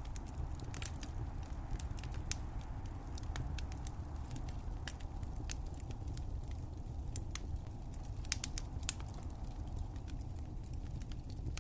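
Fire crackling: a steady low rumble with frequent short, sharp pops and snaps, a few louder pops a little past eight seconds in.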